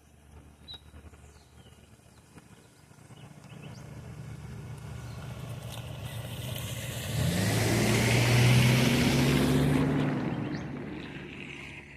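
A motor vehicle drives past on the road. Its engine and tyre noise build to a peak about eight to ten seconds in and then fade, with the engine note rising around seven seconds in. Faint bird chirps are heard at the start.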